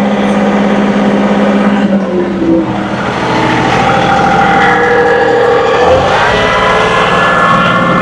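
John Deere 2038R compact tractor's three-cylinder diesel running under load while the tractor pushes snow. A steady hum gives way about two seconds in to shifting engine tones, with a rising whine near six seconds as the revs and load change.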